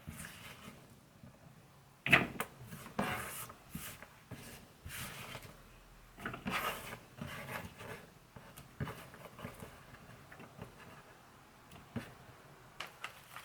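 Kitchen prep sounds: irregular knocks and clatters of utensils and containers being handled and set down, the sharpest about two seconds in, with quieter shuffling between.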